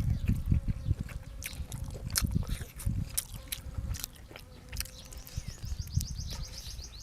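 Close-miked chewing and biting while eating, with wet mouth sounds and sharp clicks. Near the end there is a fast run of high ticking lasting about two seconds.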